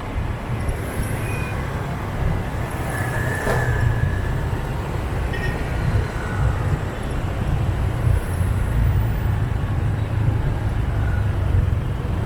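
Motorbike riding through city traffic, heard from the rider's seat: a steady low rumble of engine and road noise with the surrounding traffic, and a brief high tone about three seconds in.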